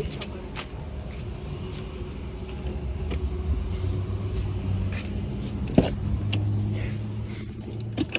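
Car engine idling with a steady low hum, with a few light clicks and one sharp click a little before six seconds in.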